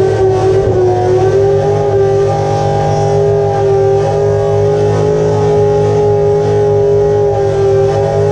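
Car engine revved up and held at a steady high rpm, one sustained even drone.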